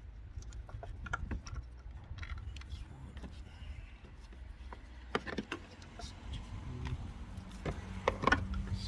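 Scattered clicks and metallic clinks of hand tools and parts being handled in a car's engine bay, over a low rumble. A steady low hum comes in about seven seconds in.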